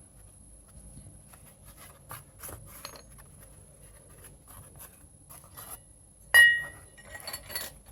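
Light clicks and knocks of steel parts being handled, then about six seconds in one sharp metallic clink that rings briefly, followed by a short rattle of smaller clinks.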